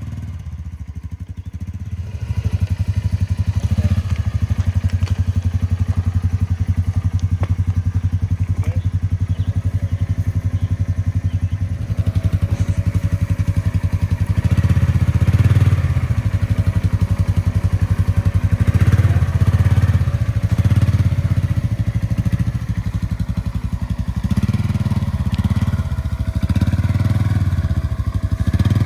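Polaris Ranger Midsize UTV engine running at low speed, a steady low rumble that picks up about two seconds in and surges a few times in the second half as the throttle changes.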